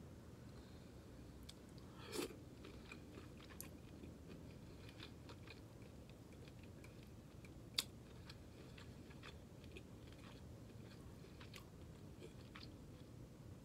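Faint close-up chewing of food, with soft scattered mouth clicks, a louder bite about two seconds in and a single sharp click near eight seconds.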